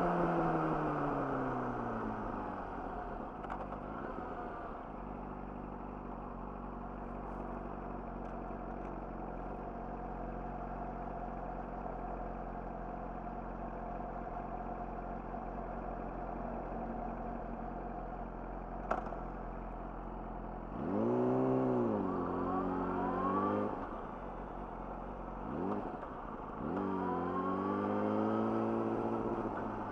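Yamaha YZF-R6's inline-four engine through an Akrapovic slip-on exhaust. The revs fall away to a steady idle that lasts about fifteen seconds, with a single sharp click near the end of it. About twenty seconds in, the engine revs up and pulls away, dips briefly between gears, and rises again near the end.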